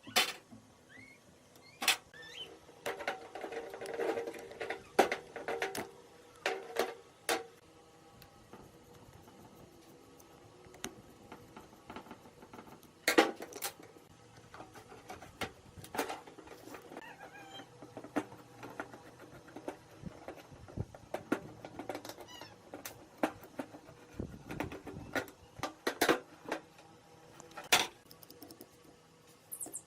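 Scattered sharp knocks and clicks at irregular intervals, with short stretches of scraping, from hand work on a rusty iron cutter machine.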